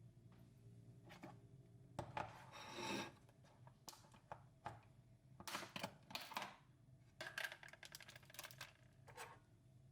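Quiet handling sounds: light clicks, clinks and rustles in short irregular clusters, with a longer rustle about two seconds in.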